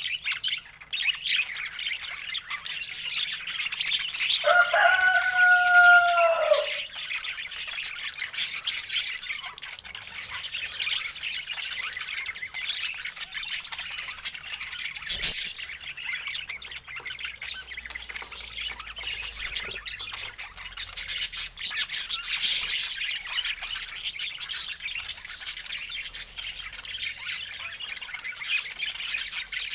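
A group of budgies chattering and warbling continuously in fast, high chirps. About four seconds in, a louder, lower call sounds for about two seconds, dropping in pitch at its end.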